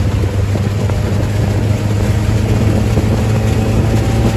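Bradley GT II kit car's rear-mounted air-cooled Volkswagen flat-four engine running steadily while cruising on the road, heard from inside the cabin with a low hum and wind and road noise.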